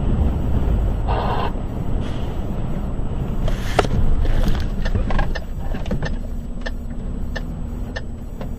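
Motor vehicle noise: a steady low rumble of a car on the road, with a sharp bang about four seconds in and a series of light clicks after.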